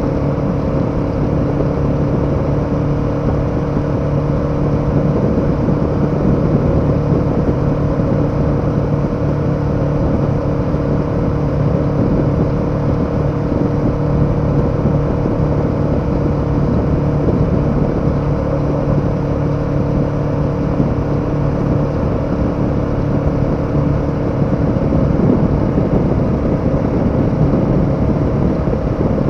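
KTM 1290 Super Adventure's V-twin engine running at steady revs while the motorcycle cruises, its engine note held level over an even rush of noise.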